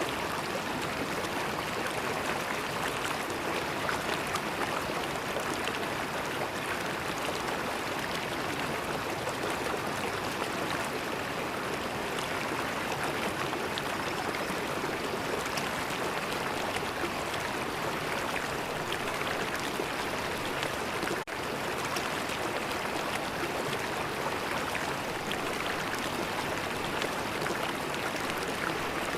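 River water flowing steadily, an even rushing with no change in level apart from a momentary dropout about 21 seconds in.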